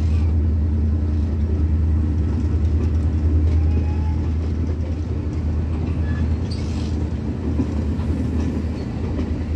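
Sri Lanka Railways Class S13 diesel multiple unit pulling out of a station, its carriages rolling slowly past with a steady low rumble and a few faint wheel clicks.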